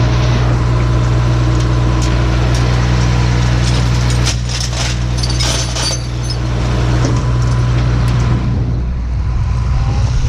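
A truck engine idling steadily, with tie-down chains clinking and rattling as they are handled about halfway through.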